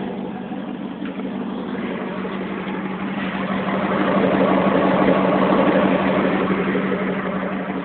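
1996 Jeep Grand Cherokee's 5.2-litre (318) V8 idling through an exhaust with no muffler, only the catalytic converter left in line. It runs steadily, growing louder in the middle and easing back.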